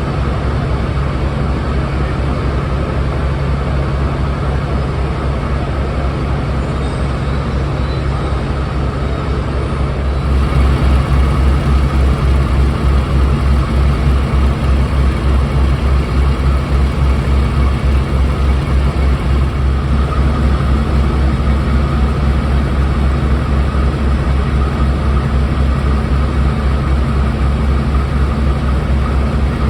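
Class 52 Western diesel-hydraulic locomotive D1015's twin MTU 12V538TB6 V12 diesel engines running with a steady low throb, getting louder about ten seconds in.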